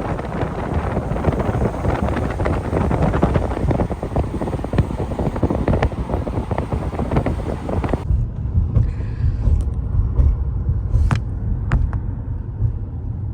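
Wind buffeting the microphone with a dense rushing noise for about eight seconds, then an abrupt change to a steady low vehicle rumble with a few faint clicks.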